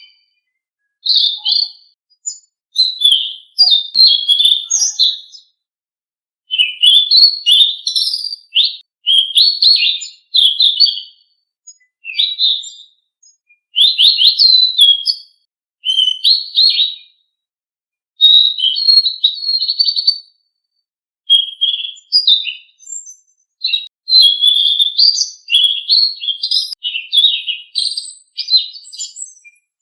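A selendang biru songbird singing: rapid, high chirping and whistled song phrases in bursts of a second or two, with short pauses between them.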